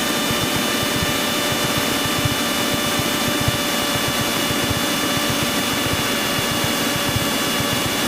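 Cessna 172's piston engine and propeller droning steadily inside the cockpit, with a few steady high tones over the drone.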